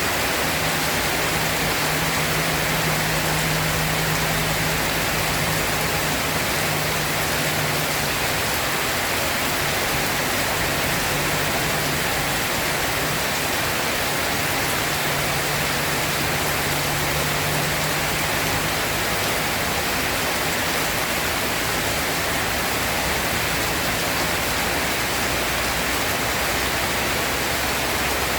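Steady, heavy rain falling, an even unbroken hiss with no thunder claps. A faint low hum rises and falls underneath during the first two-thirds.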